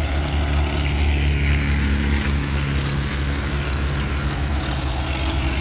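An engine idling steadily, a low, even hum with no revving.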